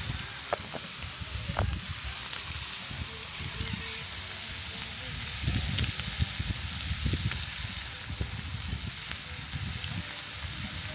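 Breakfast food frying in a pan over a campfire, with a steady sizzle. Low rumbles and a few sharp clicks come and go, louder around the middle.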